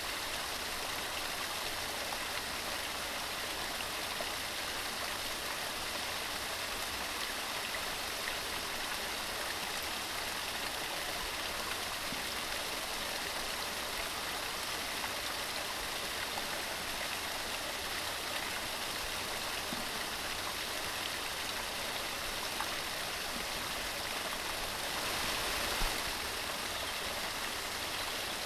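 Mountain stream running steadily, with a brief swell in the water sound near the end.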